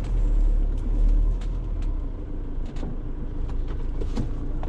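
Van engine running at low speed, heard from inside the cab as a steady low hum, with several short clicks and knocks from the cab.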